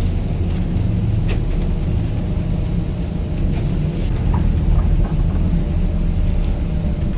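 Steady low engine rumble of a commuter ferry under way, with a few faint knocks over it.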